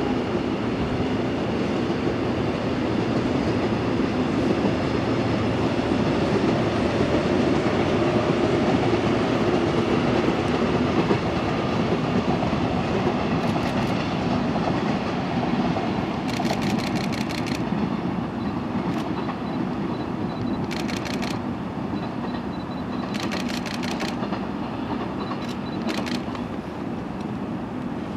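Ten-car Korail Line 4 electric multiple-unit train running along the track: a steady rumble of wheels on rail, loudest about a third of the way in, then easing off gradually.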